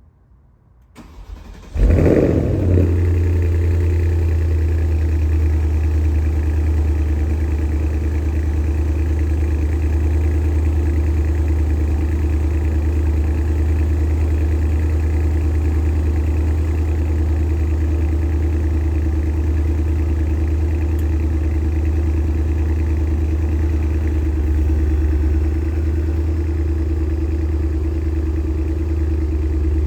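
2015 Porsche Panamera Turbo S's twin-turbo V8 cold starting: a brief crank, then the engine catches about two seconds in with a sharp rev flare. It settles within a second into a loud, steady idle.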